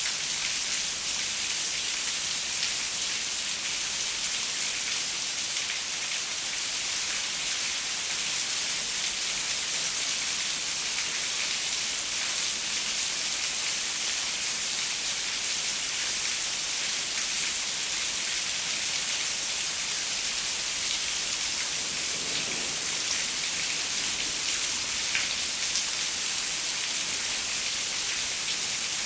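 Steady rain pattering on a window, an even hiss with scattered drop ticks.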